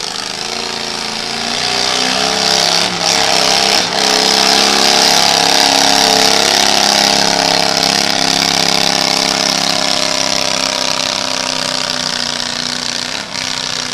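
Small pulling tractor's engine running hard at high revs, its pitch climbing over the first few seconds and then holding, easing a little near the end.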